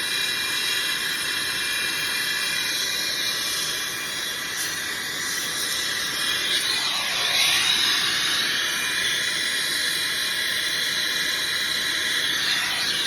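Brazing torch flame hissing steadily while a filter drier is brazed into copper refrigerant line. About seven seconds in, the hiss dips and then rises in pitch.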